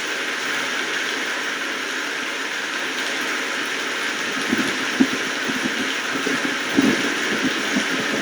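Steady rain falling, an even hiss, with irregular low knocks of heavier drops from about halfway through.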